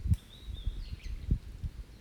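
Open wood campfire burning, with irregular low fluttering pulses and a sharp crack just at the start. A small songbird sings high chirps and a falling note over it.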